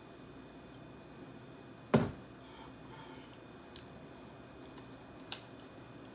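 Close-up eating sounds of a person chewing fried chicken white meat: soft, quiet mouth noises with a few small wet clicks, and one sharp loud click about two seconds in.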